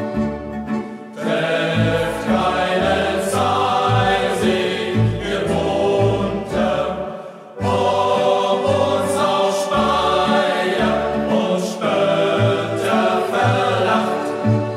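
Youth group choir singing a German hiking song over low accompanying notes, with a short break between phrases about seven and a half seconds in.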